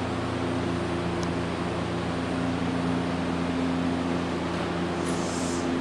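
Electric train at a station platform: a steady low hum with several held tones over a rumbling noise, and a brief high hiss near the end.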